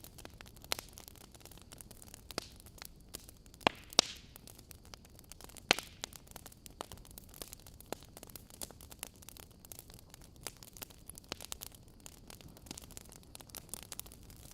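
Wood fire in a fireplace crackling, with irregular sharp pops over a faint hiss; the loudest pops come a little under 4 s in, at about 4 s, and just before 6 s.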